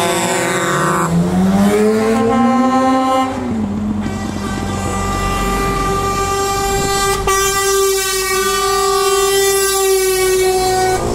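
Truck air horns sounding: a blast that rises in pitch over a couple of seconds, then a long steady blast of several notes at once.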